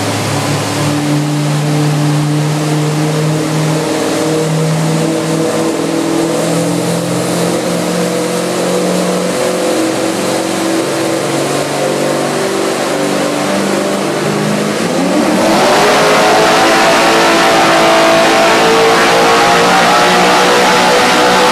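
Nitrous-equipped 2010 Chevrolet Camaro's engine running on a chassis dyno, steady with small shifts in pitch, then about fifteen seconds in going to full throttle: it gets louder and its pitch sweeps up and climbs on through the pull.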